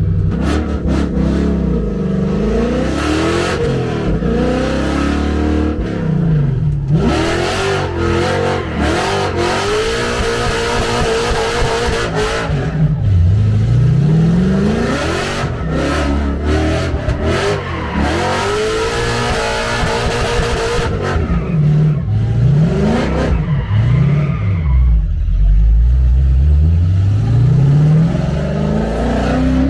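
Tuned drift car's engine revving hard, its pitch climbing and dropping over and over as it is driven through slides, with a long climb near the end.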